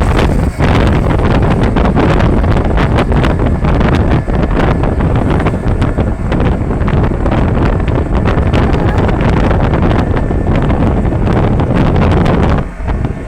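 Loud wind buffeting the microphone: a steady rushing roar with constant crackling gusts, easing briefly near the end.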